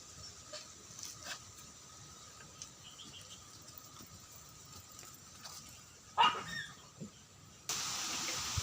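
An animal's short call with a falling pitch about six seconds in, over faint scattered clicks; a steady hiss starts abruptly near the end.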